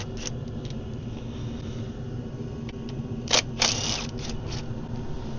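Hand tools at work on the intercooler hose's 10mm fixings: a sharp metallic click about three seconds in, then a brief rasp and two lighter ticks, over a steady low hum.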